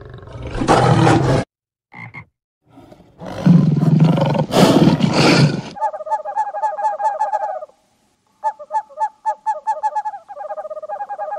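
Animal calls: two loud, rough calls in the first half, then fast runs of short pitched calls, several a second, broken by a short pause near the middle.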